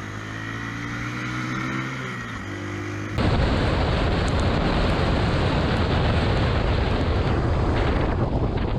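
Motorcycle engine running, its pitch rising slowly, then an abrupt change about three seconds in to loud, steady rushing noise that drowns it out.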